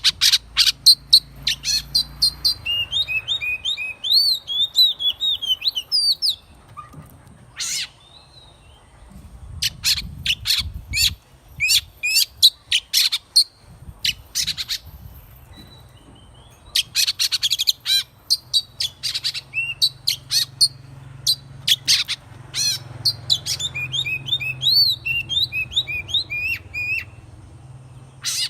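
Oriental magpie-robin singing. Runs of sharp, rapid clicking notes alternate with phrases of quick rising and falling whistles. The whistled phrases come twice, early on and again in the latter part.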